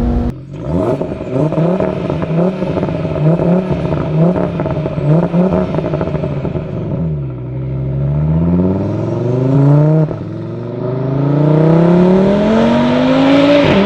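Tuned Audi TT RS 8S's 2.5-litre five-cylinder turbo engine through a 4-inch turbo-back exhaust. It revs in about eight quick throttle blips. It then pulls in two long rising climbs, with a short dip in pitch between them like an upshift.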